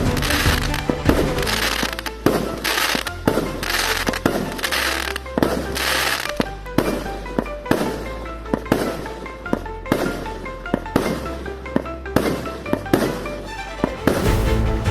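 Fireworks going off, with many sharp bangs and crackling bursts, heaviest in the first half, over background music with a held bass line.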